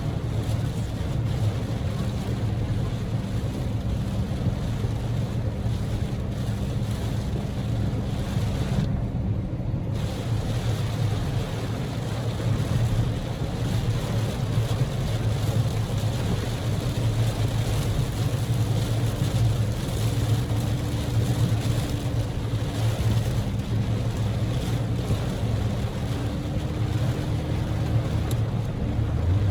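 Heavy typhoon rain drumming on a moving car's body and windshield, with steady road and tyre-spray noise and the low hum of the Daihatsu Move's small EF-VE engine underneath. The rain hiss cuts out for about a second roughly a third of the way in, then returns.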